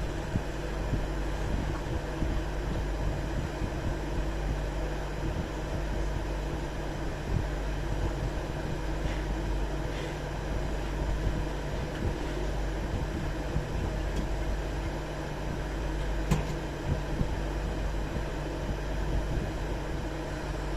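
Steady rumble of a train in motion, with a few faint clicks.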